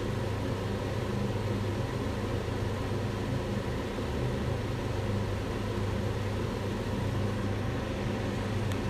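Kitchen range hood fan running steadily: a constant rush of air over a low motor hum.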